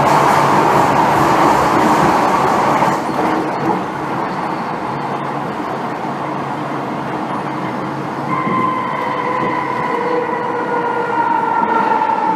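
MTR M-Train electric multiple unit heard from inside the car, running with a loud rumbling ride noise that drops back about 3 seconds in. From about 8 seconds a whining chord of several tones sets in and slowly slides lower in pitch as the train slows.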